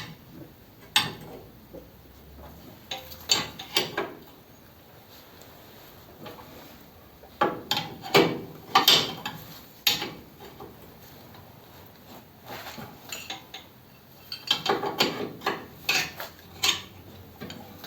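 Spanner working nuts onto bolts, giving several short runs of metal clicks and clinks.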